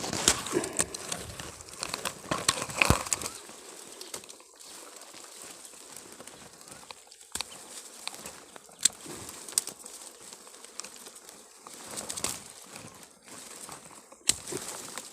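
Rustling and crackling of leaves and twigs with scattered sharp snaps, denser and louder in the first three seconds, then sparse clicks.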